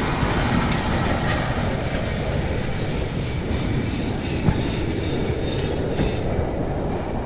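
Passenger train rolling on the rails, with a steady high-pitched wheel squeal setting in about two seconds in.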